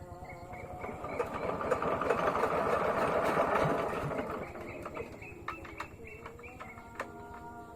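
Small engine clattering with a rapid knocking rhythm, getting louder over the first few seconds and then dying down, as it is hand-cranked to start.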